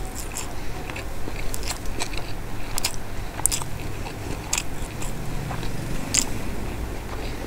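Close-miked eating sounds: chewing a mouthful of soft rice and shredded Bombay duck, with sharp wet clicks and smacks of the lips and mouth coming irregularly, about one or two a second.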